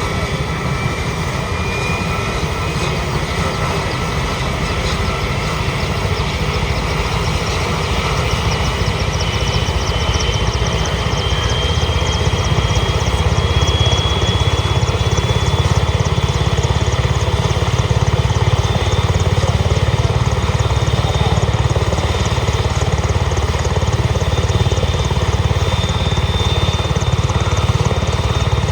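Italian Navy AgustaWestland EH-101 Merlin helicopter running on the ground, its turboshaft engines and rotors giving a heavy, steady rumble with rapid rotor chop. A thin turbine whine rises slowly in pitch throughout, as the engines and rotor spool up.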